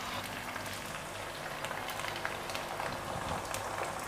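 Sliced onions frying in hot oil in a karahi: a steady sizzle with fine crackles.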